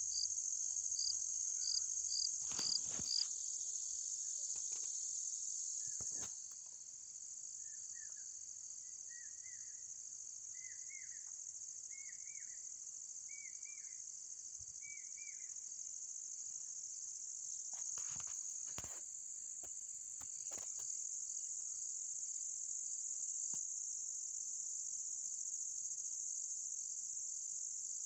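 A steady, high-pitched insect chorus that does not let up. About a third of the way in, a separate caller gives a run of about seven short chirps, and a few sharp knocks sound near the start and past the middle.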